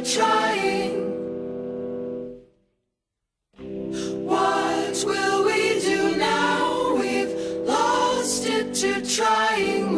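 Choral singing with held chords, which fades out about two seconds in, drops to silence for about a second, then starts again.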